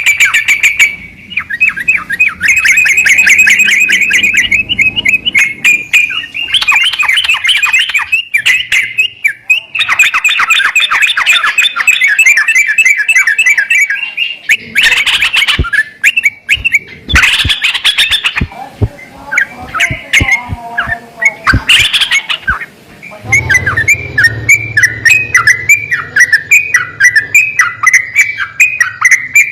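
Yellow-vented bulbul (trucukan) chattering in quick, repeated bursts of song with short pauses. A few sharp clicks fall in the middle.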